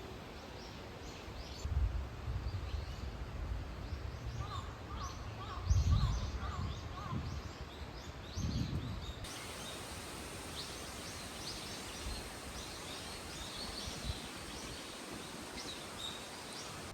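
Small birds chirping and calling over outdoor background noise, with a short warbling trill about five seconds in. A few low gusts of wind hit the microphone in the first half.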